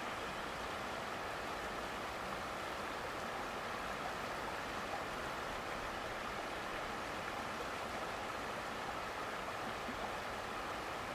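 Running water, like a stream, rushing steadily.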